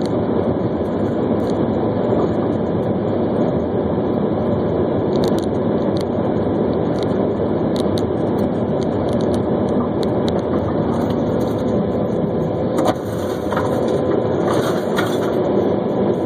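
Steady road and engine noise of a car in motion, with a few faint clicks.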